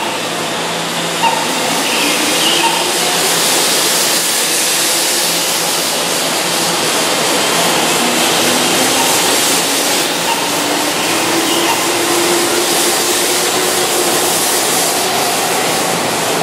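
Keihan Railway 2600-series electric train pulling out of a station, its motors and wheels running as it picks up speed, growing louder over the first few seconds and then holding steady.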